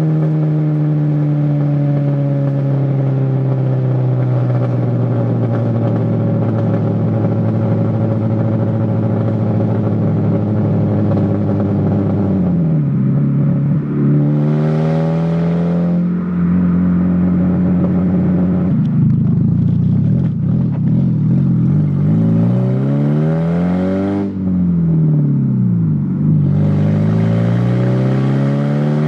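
1993 Saturn SW2's 1.9-litre twin-cam four-cylinder engine running loud through an open exhaust manifold, with no pipe or muffler after it. Its pitch sinks slowly for about twelve seconds, then rises, falls and rises again in several revs.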